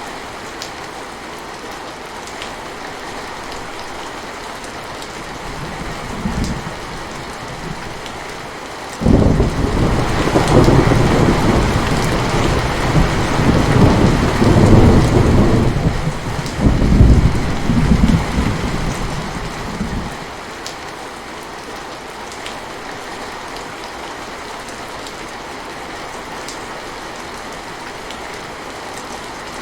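Steady rain falling, with a long deep roll of thunder that swells about nine seconds in and dies away after about ten seconds.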